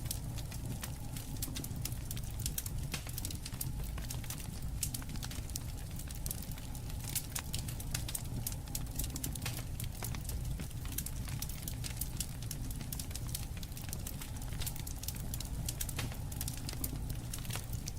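Wood fire burning, with frequent irregular crackles and sharp pops over a steady low rumble.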